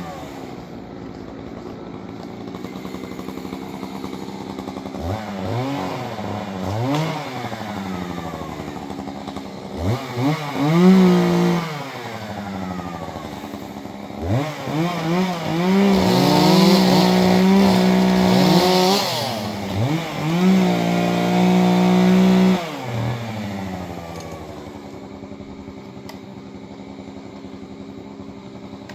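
Chainsaw engine idling and blipped up in short revs, then held at full throttle twice for a few seconds each about halfway through before dropping back to idle.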